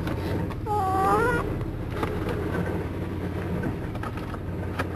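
Car engine idling steadily, with one short, high, wavering call like a meow about a second in.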